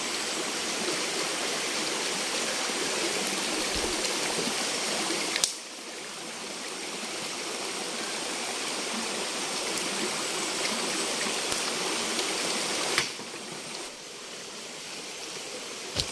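Steady rush of a flowing forest river or stream. It drops sharply in level twice, about five and thirteen seconds in, and slowly builds again each time.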